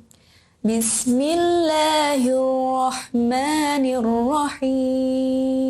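A single high voice chanting Quranic recitation in the drawn-out melodic tajwid style: long held notes with slow rises and falls in pitch, broken by short breaths about three and four and a half seconds in.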